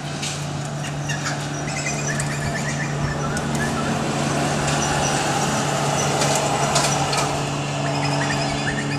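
An aircraft flying over, a steady drone that grows gradually louder, with short high bird chirps and twitters above it.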